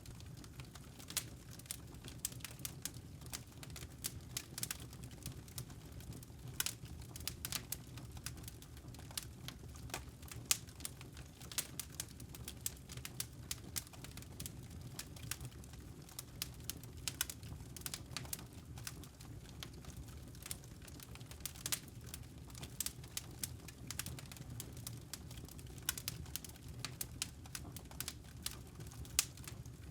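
Crackling wood fire: irregular snaps and pops of burning logs over a low steady rumble.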